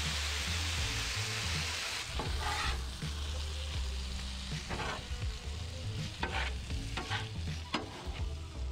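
Diced potatoes sizzling in bacon grease on a hot Blackstone flat-top griddle. From about two seconds in, a metal spatula scrapes across the steel cooktop and turns them, about five short strokes over the continuing sizzle.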